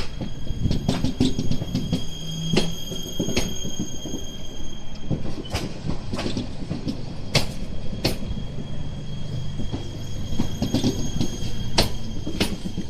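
Stadler Flirt 3 electric multiple unit rolling slowly over station points, its wheels knocking sharply and irregularly on the rail joints and crossings over a steady high whine and a low hum.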